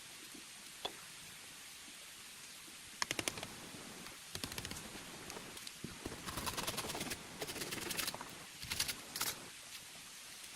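Rustling with quick runs of crisp clicks and cracks, like dry plant material being handled. A sharp rattle of clicks comes about three seconds in, rustling follows, and another brief run of clicks comes near the end.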